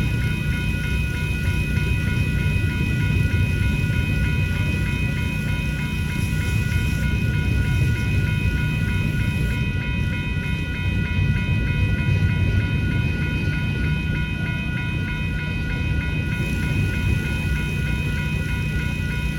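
Railroad crossing bells ringing over and over at an active grade crossing, while a freight train's cars roll past with a steady low rumble.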